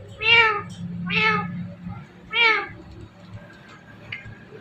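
Indian ringneck parrot mimicking a cat's meow: three short meows about a second apart in the first two and a half seconds.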